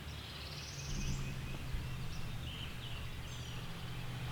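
Small songbirds chirping, with a fast rising trill about a second in, over a steady low background rumble.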